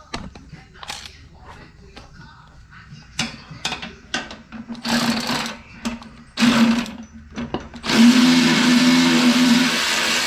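Handheld electric power tool run in two short bursts about five and six and a half seconds in, then held for about two and a half seconds near the end, taking a bolt off the wood chipper. Light clicks of metal parts being handled come before it.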